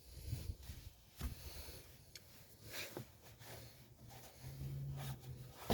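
Faint handling noises of brake-job cleanup: a rag rubbing over parts, with light clicks and knocks. A short, steady low hum comes in about three-quarters of the way through.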